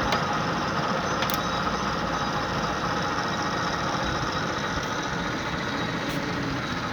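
LeBlond Makino 19" x 54" servo shift engine lathe running steadily, its motor and headstock gearing giving an even mechanical hum, with a couple of faint clicks.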